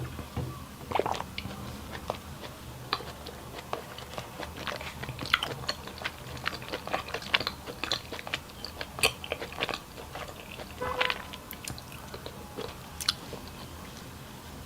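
A person eating close to the microphone: irregular crisp crunching and chewing, many short clicks at uneven intervals. A steady low hum runs underneath.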